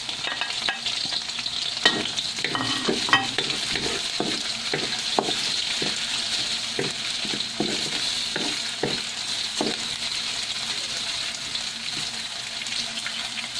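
Sliced hotdogs sizzling in hot oil with garlic and onion in a metal wok, a steady sizzle. A wooden spatula stirs them, scraping and tapping against the pan about once or twice a second.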